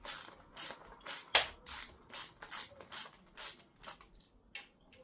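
Ratchet spanner clicking in a run of short back-and-forth strokes, about two and a half a second, as a motorcycle handguard mounting bolt is wound out. The strokes grow fainter near the end.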